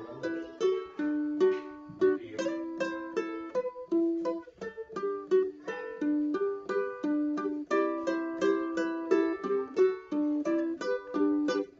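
Ukulele playing a melody of single plucked notes with chords, in a steady rhythm, sounding in a small room.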